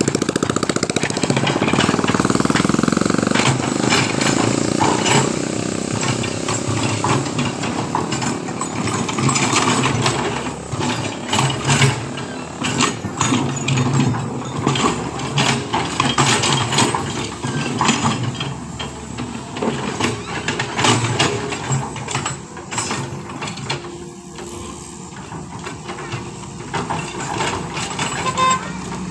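Heavy diesel engine running, with many sharp knocks and clanks over it through the middle stretch, easing off near the end.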